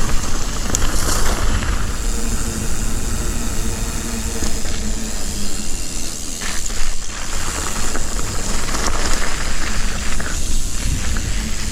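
Mountain bike rolling along a gravel trail: a steady rushing noise of tyres on gravel and wind, with a few light clicks.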